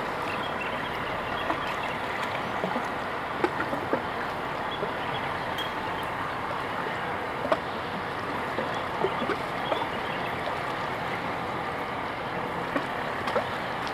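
Steady outdoor background noise, an even wash dotted with faint short chirps and ticks.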